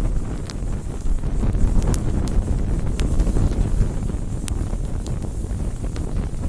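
Wood campfire burning: sharp crackles and pops of burning wood, roughly one or two a second, over a steady low rumble.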